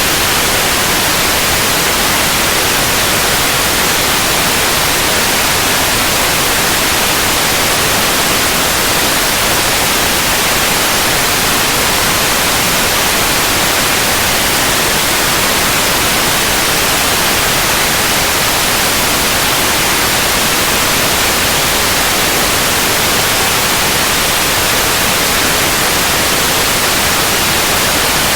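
Steady white noise: an even, unchanging hiss across the whole range, loudest in the highs.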